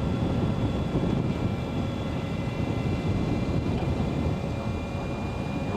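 Steady wind and road rumble from riding an Energica Experia electric motorcycle at a constant speed, with a faint, steady high whine held throughout.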